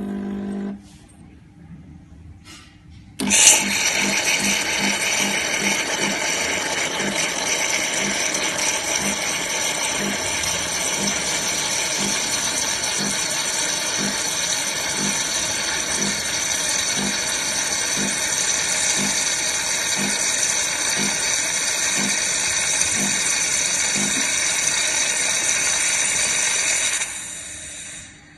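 Coffee machine running: a short beep, then a loud steady mechanical whirr with a regular low pulse, about two a second at first and about one a second later, for roughly 24 seconds before it winds down.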